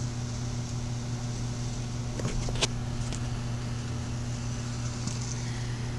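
Steady low hum from the 1980 VW diesel pickup, with a few light clicks a little over two seconds in.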